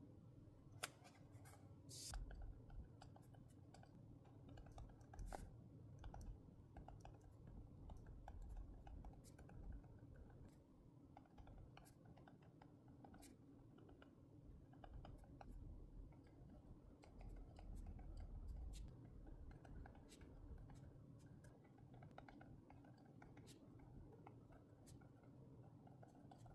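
Small scissors snipping paper, with scattered light clicks and scratches of paper being handled on a desk.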